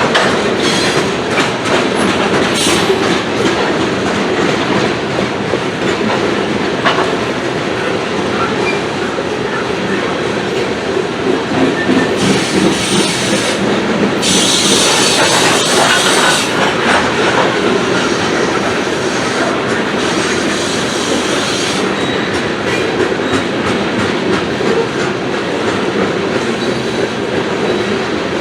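Coal train's freight cars rolling slowly past on steel wheels, with a steady clatter over the rail joints. A stretch of high-pitched wheel squeal comes about halfway through.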